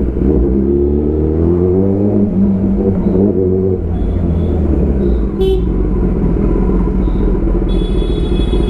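Kawasaki ZX10R's inline-four engine through an Arrow full-system exhaust, revs climbing in the first couple of seconds and then holding steady while riding. A vehicle horn beeps briefly around the middle and sounds again for about a second near the end.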